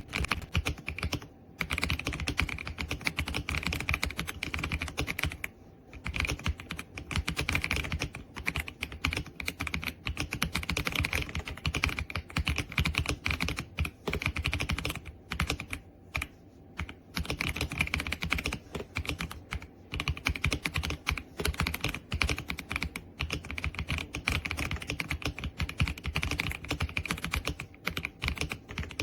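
Fast typing on the EPOMAKER x Aula F75, a gasket-mounted 75% mechanical keyboard: a dense run of key clicks, broken by a few short pauses.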